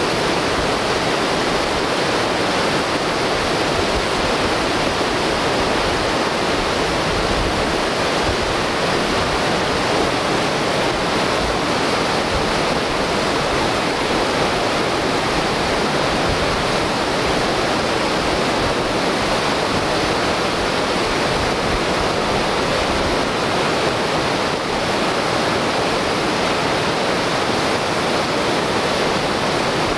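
Whitewater rapid of a large river rushing loudly and steadily.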